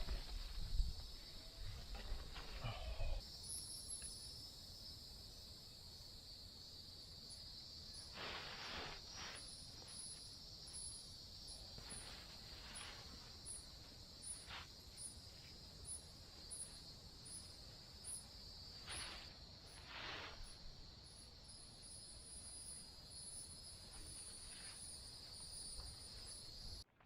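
Steady high-pitched buzzing of an insect chorus, with a higher chirp repeating a little under twice a second through the middle stretch.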